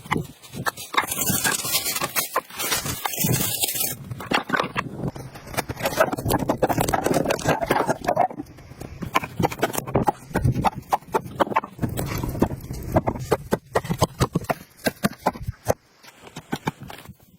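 Irregular knocks and scraping, with a dense hiss in the first few seconds.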